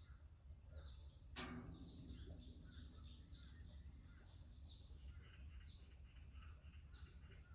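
Faint birds chirping, many short irregular calls over a low steady rumble, with one sharp click about a second and a half in.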